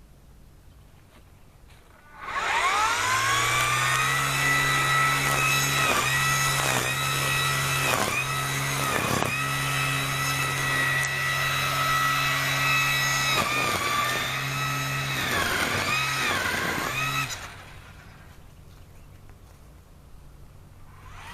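Chainsaw started up about two seconds in: it revs to a high, steady whine, drops in pitch again and again as it bogs down cutting into wood, and stops with about four seconds to go.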